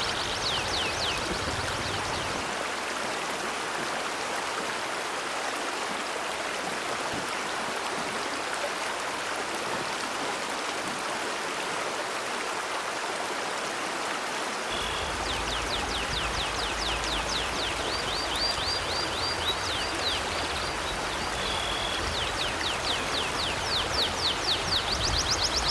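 A flowing river stream rushes steadily. About halfway through, a bird starts chirping in fast runs of short, high, downward-sweeping notes, repeated to the end.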